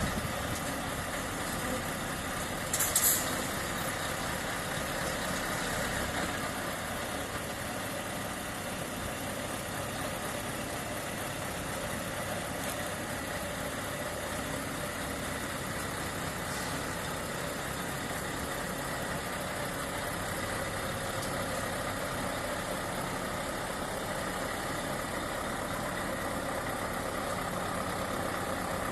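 Scania S730 truck's 16.4-litre V8 diesel idling steadily, with a brief sharp hiss about three seconds in.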